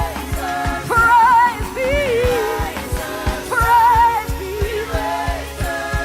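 Live worship band with a lead singer: sung melody over keyboard and bass with a steady drum beat.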